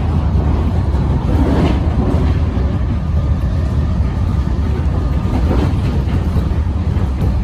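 Melbourne suburban electric train running along the track: a steady, heavy low rumble with faint clicks from the wheels and rails.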